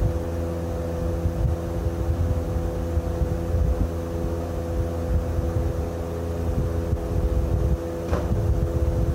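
An engine running steadily at a constant speed, with a low rumble and a steady hum over it.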